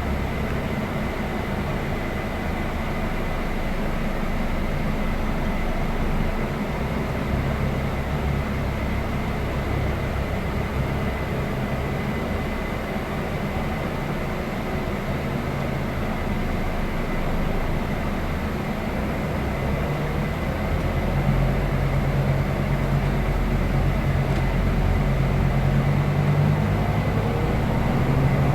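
Scania K320 IB coach's diesel engine running under way with steady road rumble. About two-thirds of the way through, the engine's low drone grows louder.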